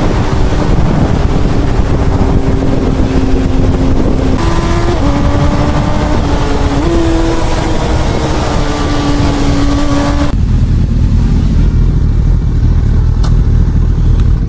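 Honda CB1000R's inline-four engine running under way, its note steady with small shifts in pitch, under heavy wind rush on the helmet microphone. About ten seconds in the wind noise falls away, leaving a low engine rumble.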